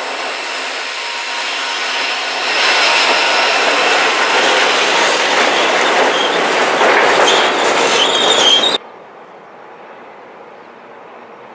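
Freight train passing close by: the trailing EMD GP40-2 diesel locomotive, then flatcars loaded with welded rail, wheels squealing and clattering on the track. It grows louder about two and a half seconds in and cuts off abruptly near the end to a faint steady hiss.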